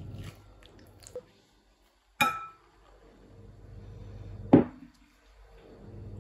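Kitchen dishes being handled: a ringing clink about two seconds in and a louder knock about four and a half seconds in, over a low steady hum.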